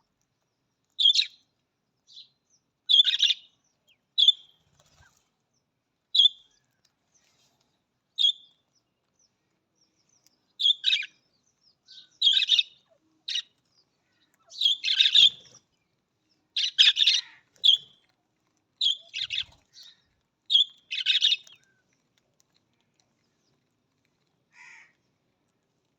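Budgerigars chirping: short, high calls every second or two with silent gaps, coming thicker and louder in the middle.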